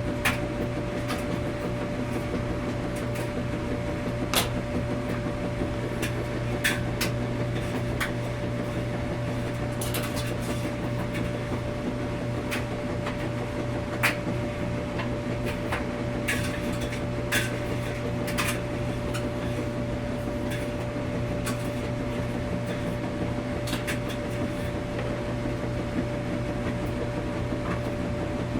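Washing machine running with a steady hum and a constant mid-pitched tone, with irregular sharp clicks and knocks every second or two.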